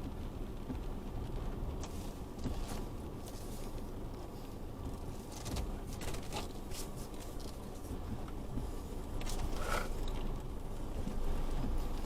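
Isuzu D-Max V-Cross pickup's diesel engine running steadily at low revs, with scattered clicks and knocks from the vehicle over the whole stretch.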